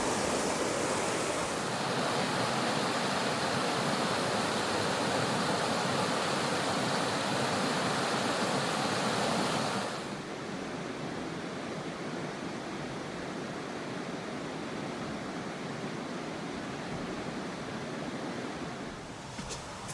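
Steady rush of river water flowing. It drops noticeably about ten seconds in and continues more softly.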